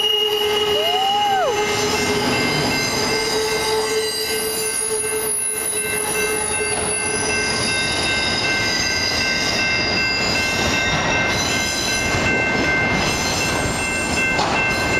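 Freight train of autorack cars rolling past, its wheels squealing in several steady high-pitched tones over the continuous rumble of the cars.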